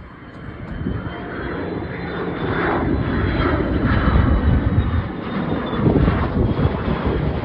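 Airplane engine noise from an aircraft flying past: a loud rumble that builds over the first few seconds and stays strong, with a faint high whine above it.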